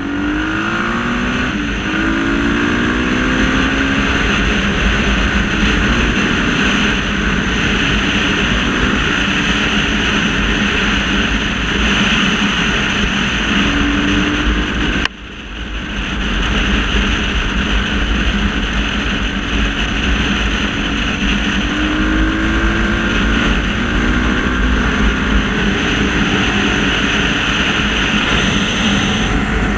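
Motorcycle engines running and revving up and down over a constant rush of noise, with a sudden break about halfway through.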